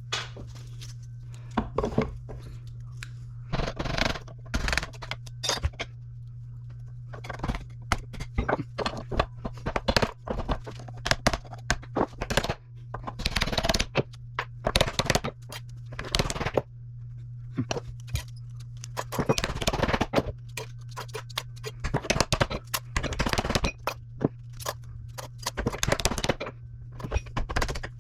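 Scrap small electric motors being worked apart by hand: an irregular run of metal knocks, clanks, scrapes and crunches, over a steady low hum.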